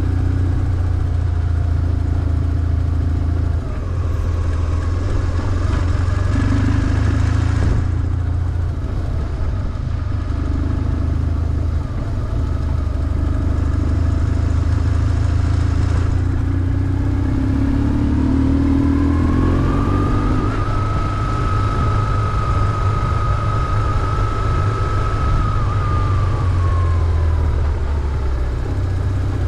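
BMW R1150GS air-cooled boxer twin engine running steadily while the motorcycle is ridden through city streets. A separate high whine rises about twenty seconds in, holds for several seconds, then falls away.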